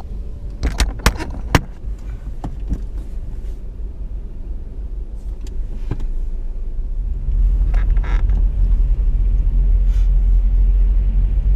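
Car engine and low road rumble heard from inside the cabin as the car pulls away in slow traffic, getting louder about seven seconds in as it picks up speed. A few sharp knocks sound in the first couple of seconds.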